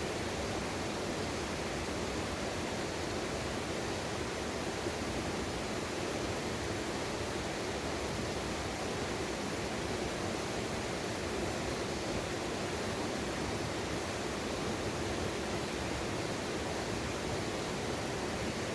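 Mountain stream water rushing steadily, an even unbroken noise.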